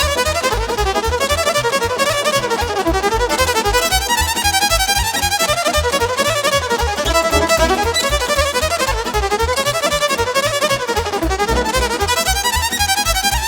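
Instrumental break of live Romanian folk party music: a fast, twisting violin and accordion melody over an electronic keyboard accompaniment with a steady, fast bass beat.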